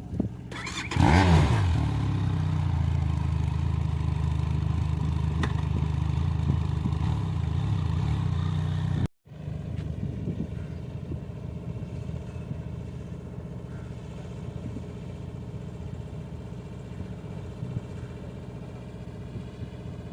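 Benelli TRK 502X twin-cylinder engine: one quick rev about a second in, then running steadily. After a brief dropout near the middle it runs on more quietly.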